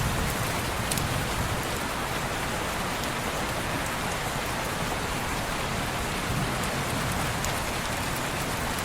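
Steady rain pattering on a window, an even hiss with a low rumble beneath it and a few sharp ticks scattered through it.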